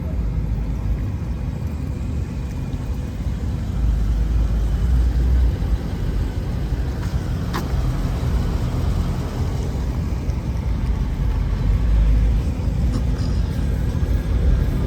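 Car engines rumbling at idle, a deep steady low rumble that swells louder twice, with one sharp click about halfway through.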